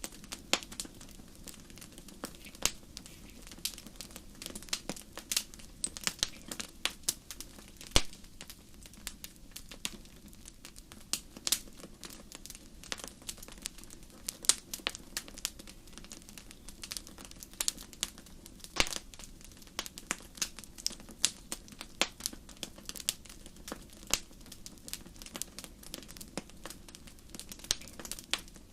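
Wood fire crackling and popping: irregular sharp snaps over a steady low rumble of burning.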